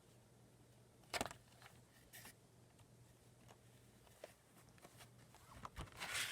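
Faint handling noise: scattered light clicks and short rustles, loudest about a second in and near the end, over a steady low hum.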